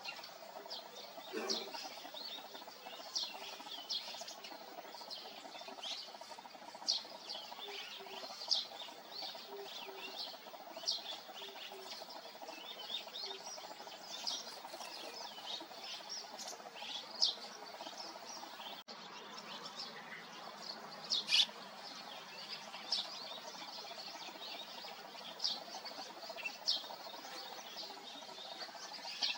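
Eurasian tree sparrows chirping: many short, high chirps at irregular intervals, the loudest about two-thirds of the way through, over a steady low background hum.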